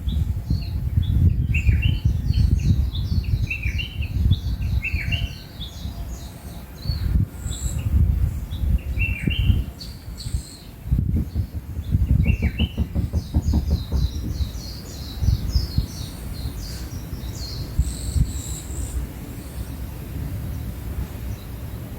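Wild birds chirping and singing, many short calls, some dropping in pitch, over a loud low rumble that eases in the last few seconds.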